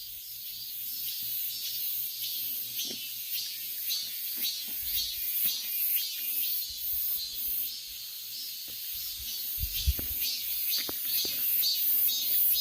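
Chorus of cicadas singing, a dense high-pitched buzz pulsing in a steady rhythm, with a few low thumps mixed in.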